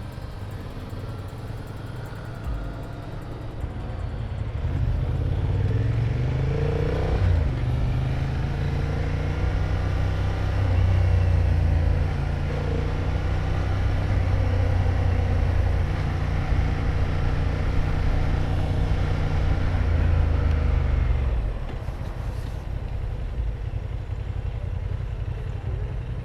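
Honda Hornet 1000's inline-four engine pulling away, rising in pitch over a few seconds, then holding a steady pitch under load, and easing off near the end, with wind noise underneath.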